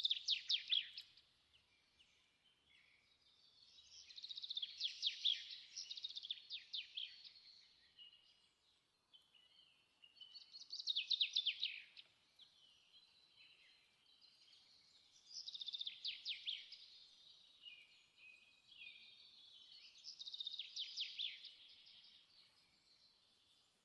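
A songbird singing: bursts of fast trills and chirps in phrases a few seconds long, coming about every five seconds with short pauses between.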